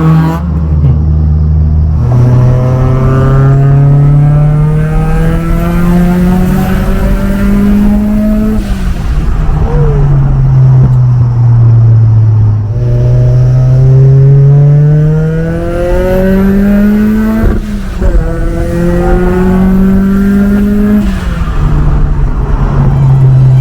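Car engine accelerating hard through the gears: the engine note climbs steadily, drops sharply at each upshift, eases down for a few seconds around the middle, then climbs again through two more shifts. A faint high whistle rises along with the pulls.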